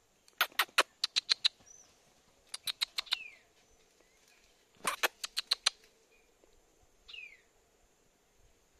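Birds calling: three bursts of rapid, sharp, chattering notes, about six a second, with a few short downward-gliding whistled notes between the bursts.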